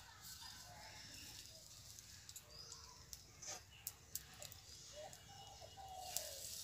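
Near silence: very faint distant bird calls and a few light clicks.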